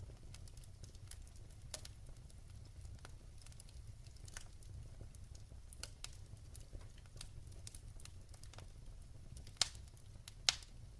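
Wood fire burning in a fireplace, crackling steadily over a low rumble of the flames, with scattered small pops and two louder snaps near the end.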